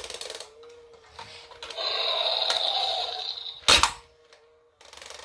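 Battery-powered robotic toy dragon running with a faint steady motor hum and a loud electronic sound effect lasting about a second and a half, followed by a single sharp knock or clatter.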